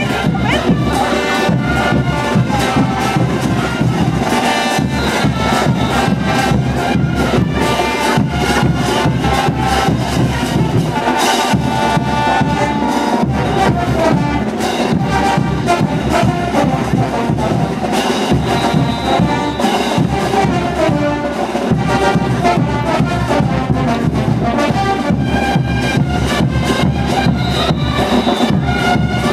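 Live brass band playing diablada music: brass instruments carry the tune over a steady drum beat.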